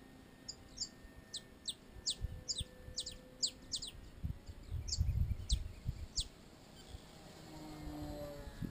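A bird calling a run of short, sharp, downward-sweeping whistled notes, about two a second, over low gusts of wind buffeting the microphone. Near the end a radio-controlled model airplane's motor drone swells as the plane comes close.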